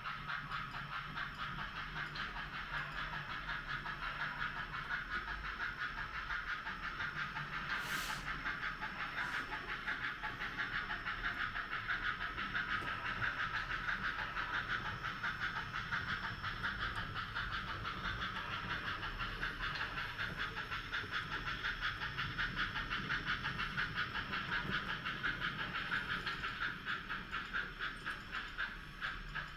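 HOn3 model steam locomotive running on the layout, a steady fast beat of chuffs and rail clicks with a low hum underneath. A single sharp click about eight seconds in.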